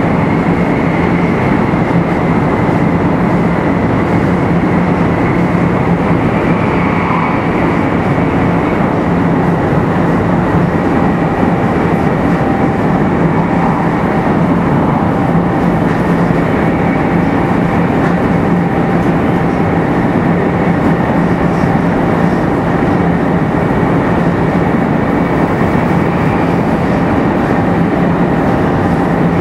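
Running noise inside a Shinkansen 500 series motor car (527-7707, Toshiba GTO VVVF inverter drive) travelling steadily along the line. It is a continuous loud rush of wheel, track and air noise, with faint steady high tones above it and the inverter sound kept quiet.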